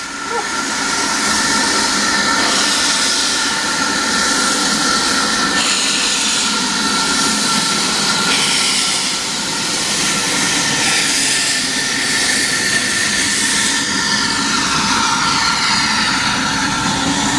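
Small steam locomotive pulling a train out, a loud steady hiss and rush of steam with a few ringing tones, easing a little near the end.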